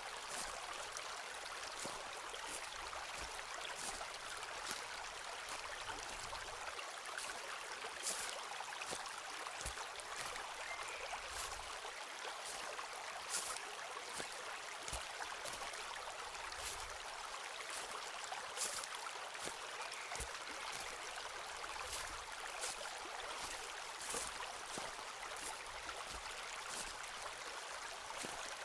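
Footsteps walking on a forest path, a step about every one and a half to two seconds, over the steady rush of a stream.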